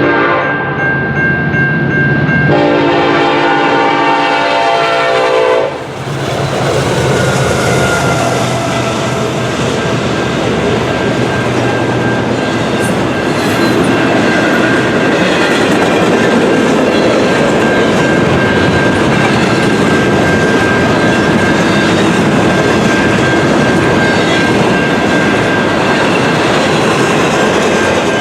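A locomotive air horn sounds a chord blast that stops suddenly about six seconds in. It is followed by the steady rumble and clatter of a train's cars rolling past close by.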